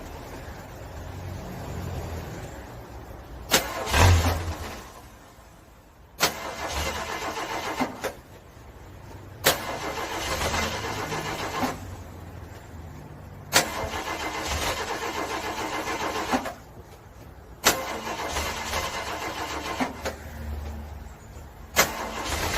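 A car engine being cranked over by its starter in a cold start. There are about six short attempts of two to four seconds each, every one opening with a sharp click and stopping abruptly, and the engine never settles into running.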